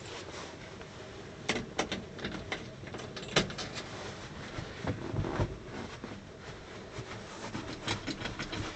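Scattered clicks and knocks from the cab of a 1968 GMC 3500 truck as it is got into and readied, with a steady haze of noise behind; the engine is not yet running.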